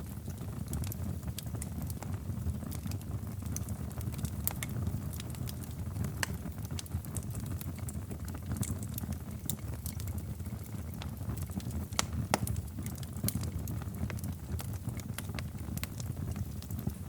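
Wood fire burning in a fireplace: a steady low rumble of the flames with irregular sharp crackles and pops, a couple of louder snaps around six and twelve seconds in.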